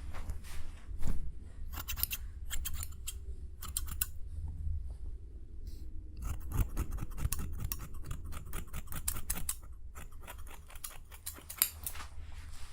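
Ear pick scraping and clicking in quick crisp strokes that come in several runs with short pauses between them, over a steady low hum.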